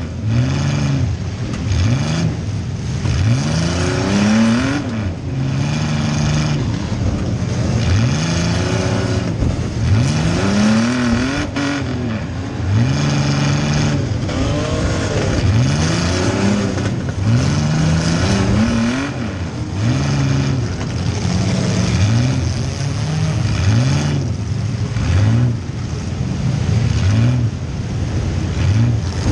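Compact demolition-derby car engine revving hard up and down over and over, heard from inside the car, with other cars' engines revving alongside and a few short sharp knocks.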